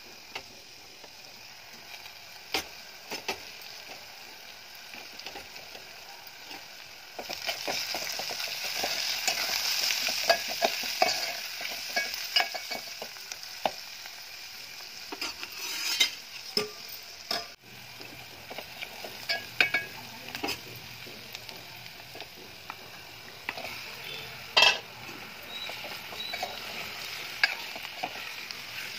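Onions and spices sizzling in hot oil in a metal pot while a steel spoon stirs them, scraping and clicking against the pot. The sizzle grows much louder about seven seconds in, then eases back.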